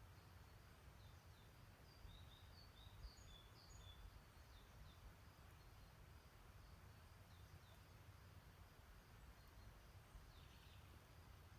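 Faint songbirds chirping in short, high notes, busiest in the first five seconds and again near the end, over a low steady rumble.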